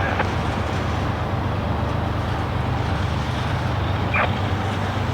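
Steady low rumble of a passing freight train, with two brief faint clicks near the start and about four seconds in.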